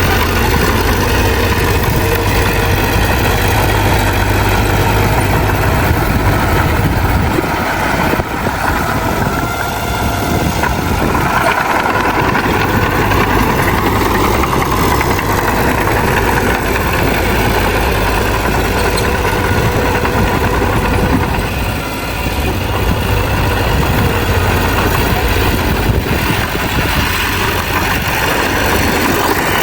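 Bulldozer's diesel engine running steadily under work, with its pitch shifting slightly and the level dipping briefly about eight seconds in and again near twenty-two seconds.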